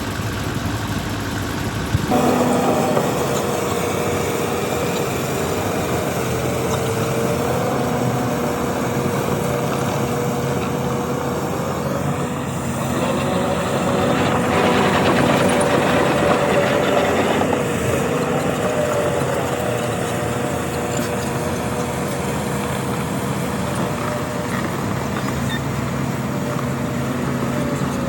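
Heavy diesel earthmoving machinery running steadily, with a steady whine over the engine. It gets louder suddenly about two seconds in and swells again around the middle.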